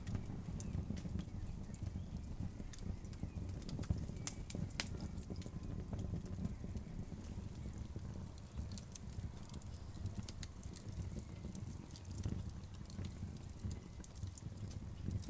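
Wood fire burning, with frequent sharp, irregular crackles and pops of the logs over a steady low rumble.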